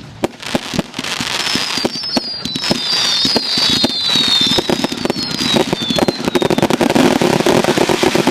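Fireworks going off in a dense run of crackling bangs that builds in loudness, with several high whistles falling in pitch partway through.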